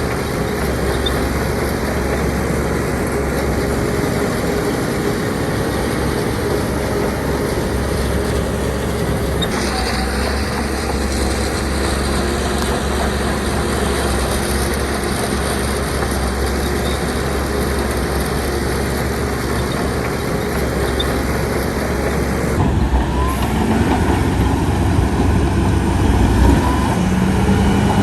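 Heavy diesel earthmoving machinery running steadily at a work site. The sound shifts about ten seconds in and changes abruptly near the end, getting a little louder.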